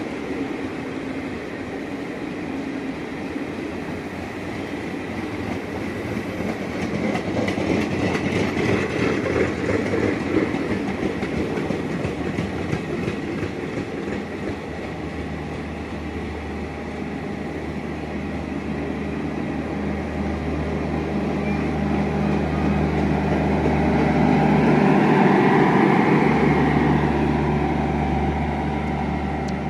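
Coaches of a Garib Rath express train running past on the track, a steady rolling rumble of wheels on rails. A low steady hum comes in about halfway, and the sound is loudest near the end as the last coaches go by.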